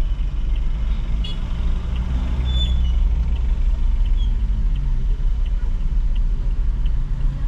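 Car cabin noise while driving: a steady low engine and road rumble, with a faint regular ticking about once every two-thirds of a second.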